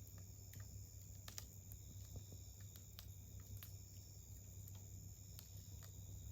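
Wood campfire crackling: faint, irregular sharp pops and ticks, roughly one or two a second. Under them runs a steady, high insect trill.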